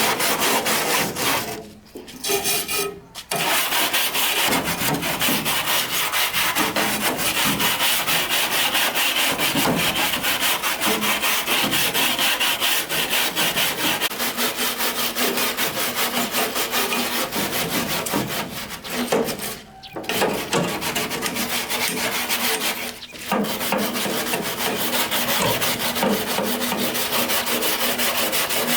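Abrasive power tool grinding or sanding a surface: a loud, rough, continuous scraping with a fast even texture, broken by a few short pauses where the tool lifts off or stops, about two seconds in and again twice past the middle.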